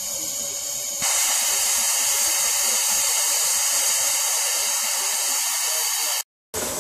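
Steam hissing steadily from a miniature railway locomotive, stepping up louder about a second in. It cuts out for a moment near the end.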